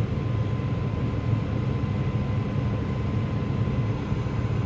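Diesel farm machinery running steadily at harvest: a constant low engine drone with a faint steady whine above it.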